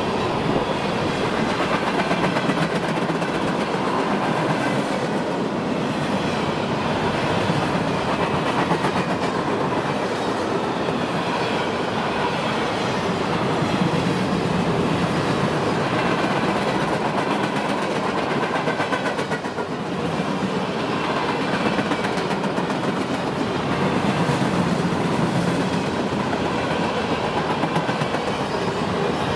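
A train rolling past on the track, its cars' wheels clattering steadily over the rails with a rhythmic clickety-clack.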